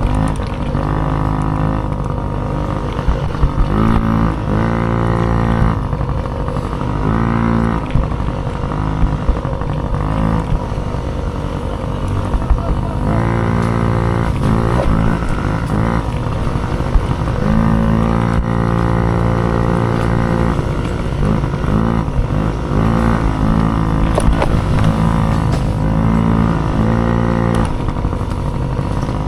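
Small dirt bike engine of the mini race class being ridden hard, revving up and backing off again and again, its pitch climbing and dropping every second or two.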